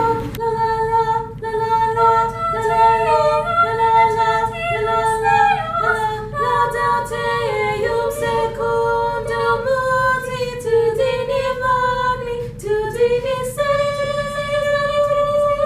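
A small group of students singing a song in harmony without accompaniment, with several voices moving together on held notes and ending on a long sustained chord.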